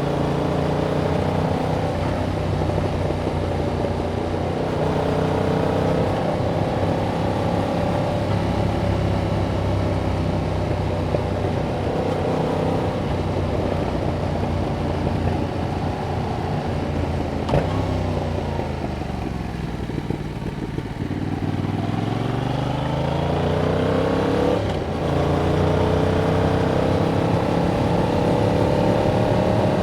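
Yamaha MT-07's parallel-twin engine through its stock exhaust, heard from the rider's position. It runs steadily, then the pitch falls as the bike slows, rises again under acceleration, drops briefly near 25 s as the next gear goes in, and climbs on.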